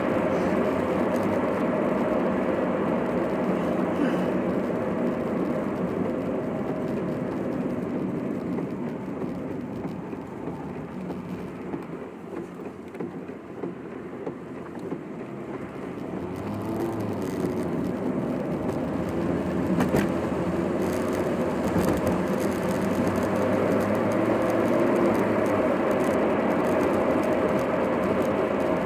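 Car cabin noise while driving: a steady mix of engine and road noise that quietens for several seconds in the middle, as the car slows, then builds again. There is a single sharp click about two-thirds of the way through.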